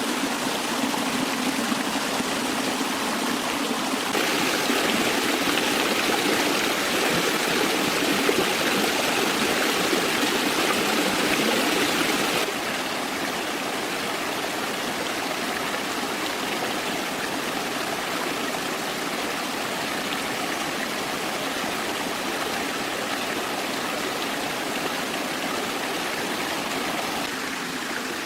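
Stream water flowing in a steady rush. It grows louder and brighter abruptly about four seconds in, then drops back just as suddenly about twelve seconds in.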